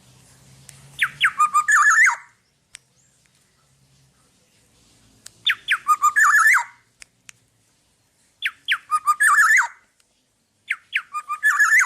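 Black-naped oriole singing. Four repeated song phrases about three seconds apart, each a few quick downward-sliding whistles running into a short fluty, slightly raspy flourish.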